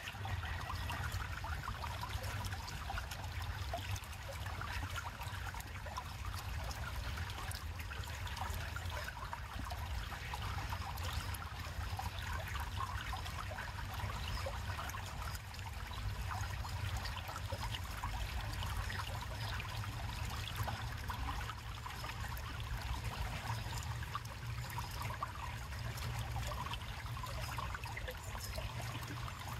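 River water flowing and trickling steadily, with a constant low rumble underneath.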